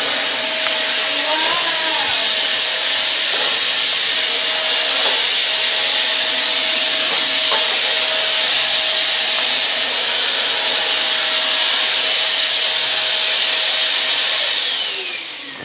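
Small corded vacuum cleaner running steadily with a high motor whine over the rush of air, then switched off near the end, its whine falling as the motor winds down.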